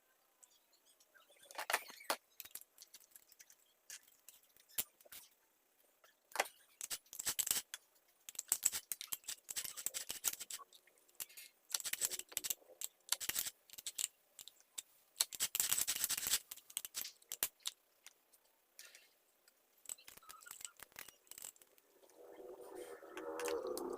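Scattered clicks, knocks and short scraping or brushing noises of a mini chainsaw's metal parts being handled and cleaned.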